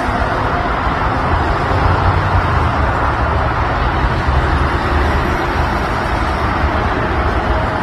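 Steady rushing noise of road traffic, with a fluctuating low rumble and no distinct events.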